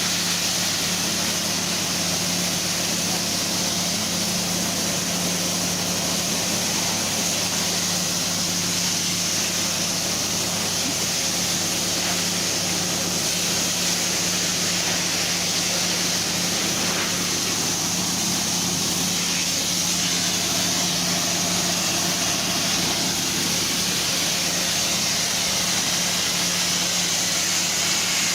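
A steady mechanical hum with an even hiss, holding constant.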